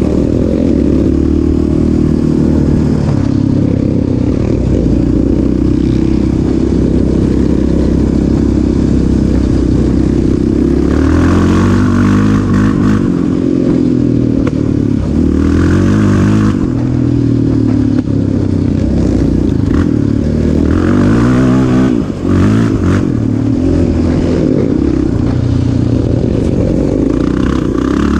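Off-road vehicle engine running loud and close, holding a steady pitch at first and then revving up and down with the throttle several times.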